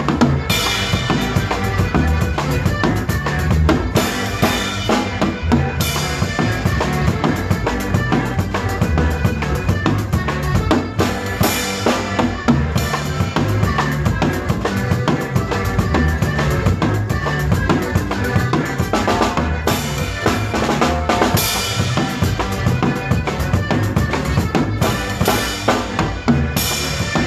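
A live conjunto band playing an instrumental passage, with the drum kit's bass drum, snare and rimshots keeping a steady dance beat under the band.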